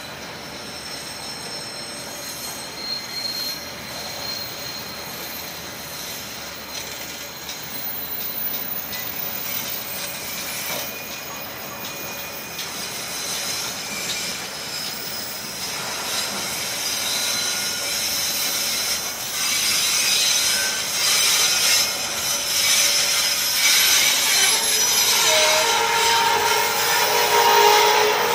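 Freight train's container wagons rolling past on the track, with thin steady wheel squeal over the running noise, getting louder toward the end as the loaded wagons come closer.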